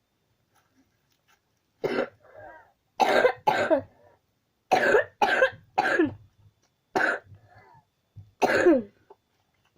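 A person coughing in a fit of about eight loud coughs, several in quick pairs, starting about two seconds in, with short breaths between them.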